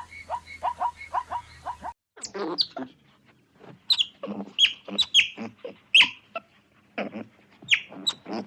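Animal calls in two parts: first a quick series of short, evenly spaced calls, about three or four a second; then, after a brief break about two seconds in, loud sharp chirps that drop steeply in pitch, mixed with lower calls.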